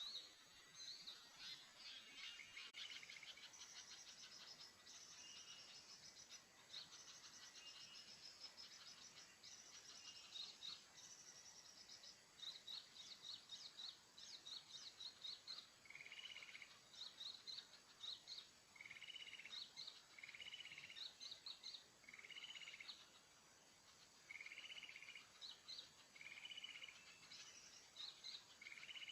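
Small birds calling faintly: quick series of short, high chirps throughout. From about halfway through, a lower buzzy note repeats every second or two, alternating with the chirps.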